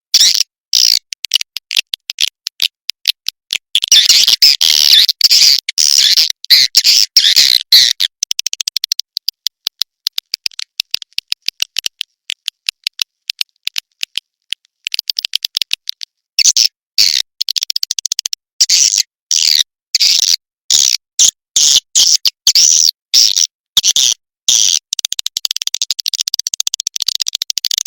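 Recorded swiftlet calls: rapid, high twittering chirps in quick bursts with short gaps, louder and denser about four seconds in and again through the second half. A swiftlet-house call sound (suara panggil) used to lure edible-nest swiftlets.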